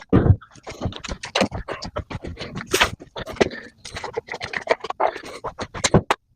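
Irregular scratching and scraping with many short clicks, like hands working or handling parts and tools.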